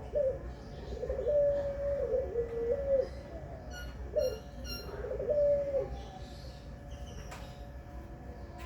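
A puter pelung ringneck dove cooing in long, wavering phrases, with a short pause between them; the cooing stops about six seconds in. A small bird chirps a few times in the middle.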